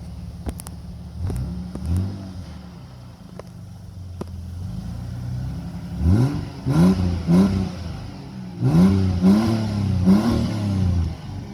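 A ute's engine idling and being revved: a couple of light throttle blips early on, then a run of quick, loud revs in the second half, each rising and dropping back to idle.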